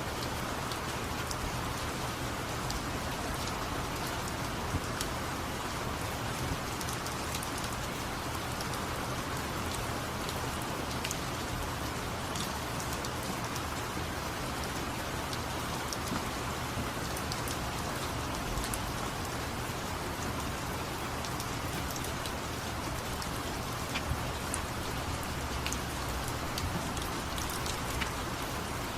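Steady rain falling, with many small sharp ticks scattered through it.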